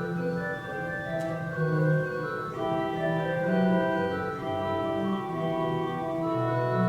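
Organ playing a slow piece in held chords, the notes changing every second or so.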